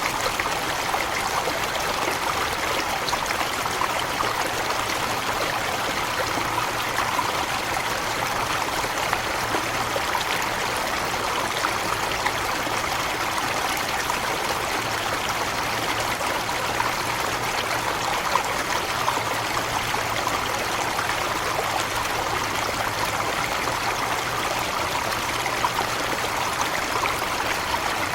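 Forest waterfall splashing and rushing steadily, an even unbroken water noise.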